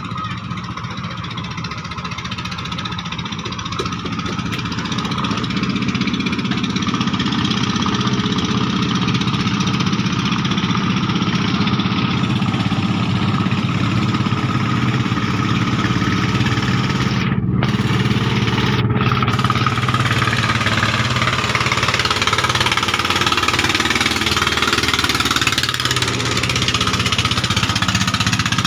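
Klotok river-boat engine running steadily with a rapid, even pulse. It grows louder over the first few seconds, then holds.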